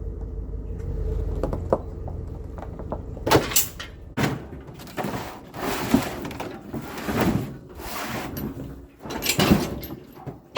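A steady low motor hum for the first few seconds, then a series of irregular clunks, knocks and rattles from equipment being handled.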